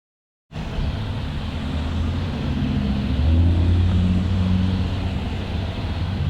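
Car engine running steadily, starting about half a second in and getting a little louder around the middle.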